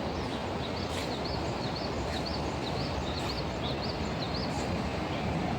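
A small bird singing a quick run of about a dozen high, rising-and-falling notes, three or four a second, over steady low background noise.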